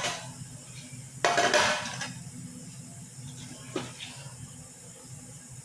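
Eating utensils clattering against a plate: a short scraping clatter about a second in and a single sharp click near four seconds, over a steady low hum.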